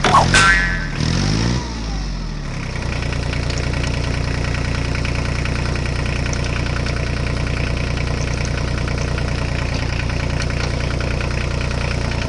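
Engine idling steadily. A brief rising-and-falling sweep comes in the first second and a half.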